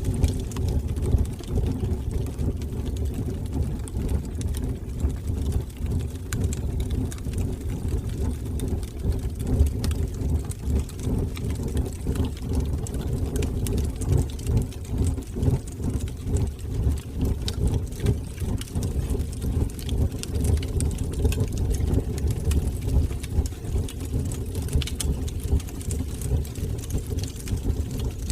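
Fire burning in a fireplace: a steady low rumble of flames with scattered faint crackles.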